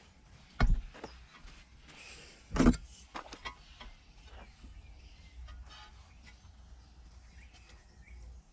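Two loud knocks about two seconds apart, then a few lighter clicks, over a faint low rumble: the knocks of hands-on building work.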